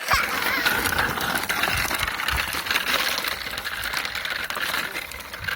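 A bicycle rolling along, its freewheel ratchet ticking rapidly and metal parts clicking and rattling.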